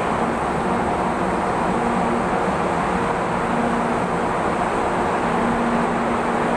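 Steady rumble of an MRT-3 light-rail train at the station platform, with a low hum that comes and goes.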